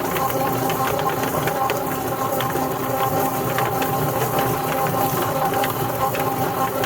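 Chicken plucker running: a steady motor hum with irregular clicking and slapping from the spinning plucker.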